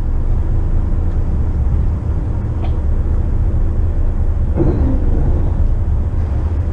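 Steady low rumble of a McKinna 65 motor yacht's engines running under way, mixed with wind buffeting the microphone.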